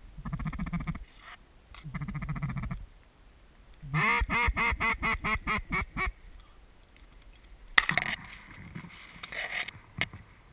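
Duck calling: two short buzzy, rattling calls, then a fast series of about nine loud quacks that step down in pitch, like a mallard hen's greeting call. A sharp click and some rustling follow about eight seconds in.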